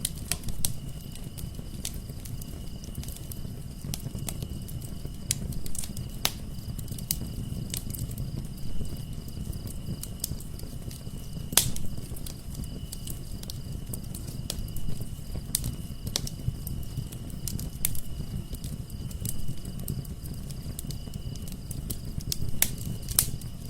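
Wood fire crackling in a fireplace: irregular sharp pops and snaps over a low, steady rumble of burning logs. A thin, steady high-pitched tone runs underneath.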